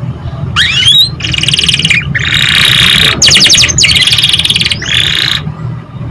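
Domestic canary singing one long song phrase: a rising whistle about half a second in, then a run of fast trills and rolls that stops shortly before the end. A steady low hum sits underneath.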